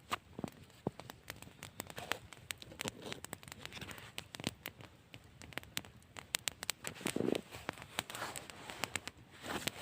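Irregular crackling and snapping, many sharp little clicks at uneven intervals, with a few soft rustling swells.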